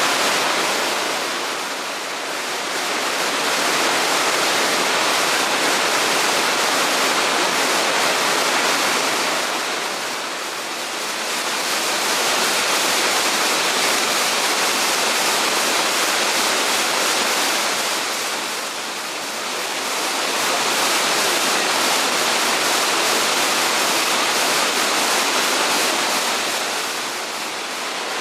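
A waterfall's falling water: a steady, dense rush of white noise that eases slightly in level about every eight seconds.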